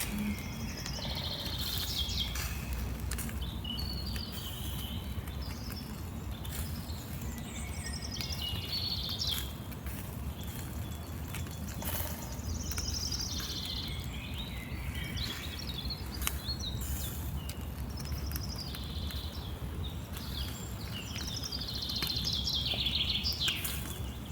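Wild birds singing outdoors: repeated short chirping phrases every few seconds over a steady low rumble.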